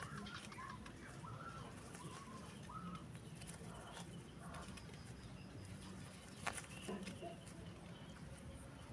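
Faint, short bird chirps repeat through the first half. Two sharp taps come about two-thirds of the way through, the first the loudest, all over a steady low background hum.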